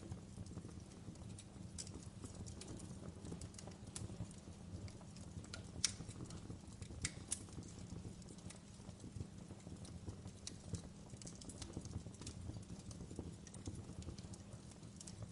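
Wood fire crackling: irregular sharp pops and snaps over a low steady rumble of the flames, with a few louder pops about six and seven seconds in.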